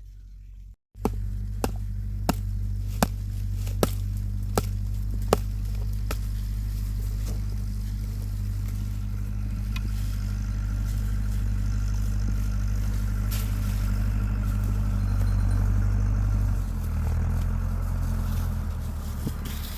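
An engine running steadily with a low hum, with a run of sharp clicks about every 0.7 seconds during the first several seconds; its pitch shifts about three-quarters of the way through.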